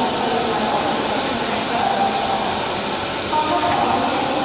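Train running with a steady noise and hiss.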